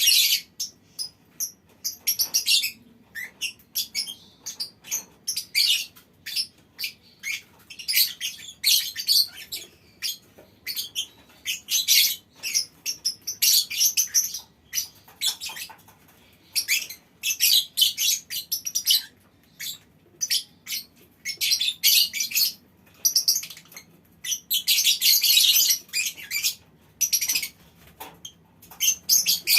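Lovebirds in a colony aviary chirping and chattering in short, shrill bursts, with a longer unbroken run of chatter about 25 seconds in.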